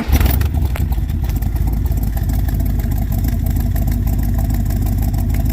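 1967 Chevrolet Corvette's 427 big-block V8 catching on a cold start and then running steadily.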